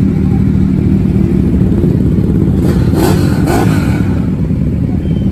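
A pack of large-displacement motorcycles running together, engines revving and exhausts blaring, with a couple of sharper bursts about three seconds in.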